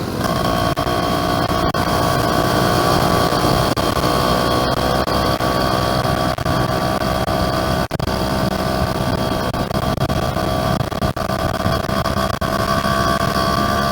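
Yamaha F1ZR's two-stroke engine pulling steadily while riding. It drops in pitch at the start as if just shifted up, then holds an even note that rises slowly toward the end.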